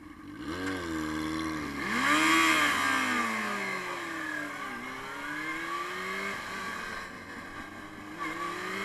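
Inline-four sport bike engine under way, its pitch climbing and falling several times as it accelerates and shifts through the gears. A loud rush of noise peaks about two seconds in.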